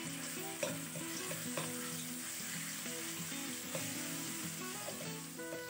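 Ground spice paste sizzling as it fries in hot oil in a metal wok, stirred with a metal ladle that clicks against the pan a few times.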